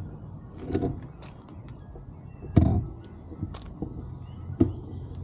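Low rumble of riding a bicycle along a road, with a handful of knocks and thumps, the loudest about halfway through.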